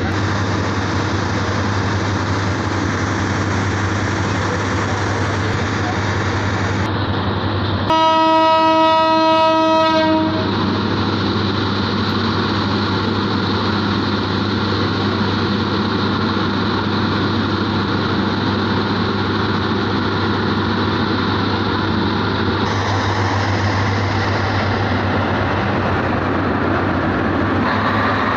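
Diesel passenger train standing at a platform with its engine running, a steady low hum. About eight seconds in, the train's horn sounds once on a single steady note for about two seconds, the loudest sound.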